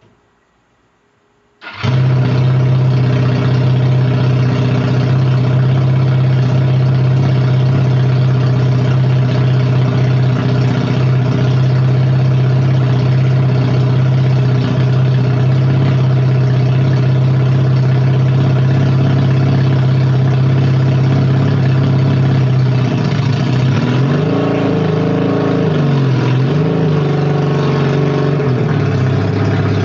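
1958 Berkeley SE328's small two-stroke twin engine starts suddenly about two seconds in and runs at a steady idle. From about 23 seconds in, the revs rise and fall as the car pulls forward.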